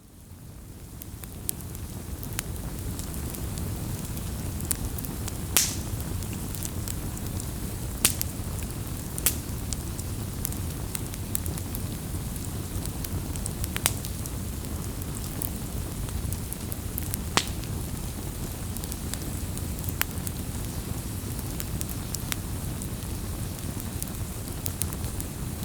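Wood campfire burning: a steady low rumble of flames with sharp crackles and pops every few seconds, the loudest about five and a half seconds in. The sound fades in from near silence at the start.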